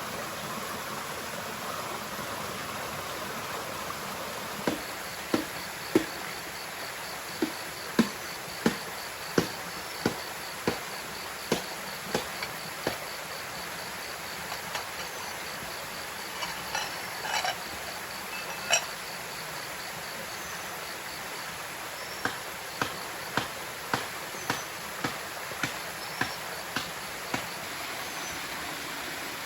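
Steady rush of the waterfall and stream, with a high, evenly pulsing trill of nocturnal forest insects through the middle. Over it come two runs of sharp knocks: about a dozen, roughly one and a half a second, starting about five seconds in; then a few scattered clicks; then about ten quicker knocks near the end.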